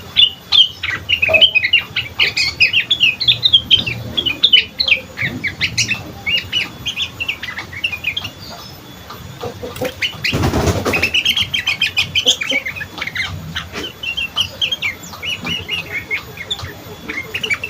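Young sooty-headed bulbul (kutilang) chattering: a rapid, continuous run of short chirps, with a brief rustling noise about ten seconds in.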